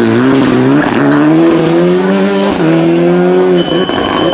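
Rally car engine accelerating hard, its pitch climbing and dropping back at two upshifts, about one and two and a half seconds in, then cutting off near the end as a steady high whistle begins.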